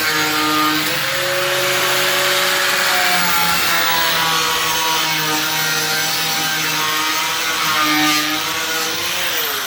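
Electric power tool cutting into the car's steel bodywork, its whine shifting in pitch with the load, then running down with a falling pitch near the end.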